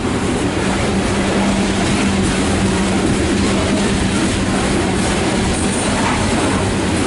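Loaded coal hopper cars of a CSX freight train rolling past on the track, a steady loud rolling noise with a constant low hum running through it.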